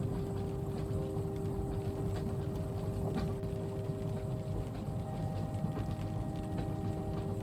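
Ambience inside a moving train carriage: a steady low rumble with a constant hum of a few steady tones over it, and light scattered ticks that fit rain on the window.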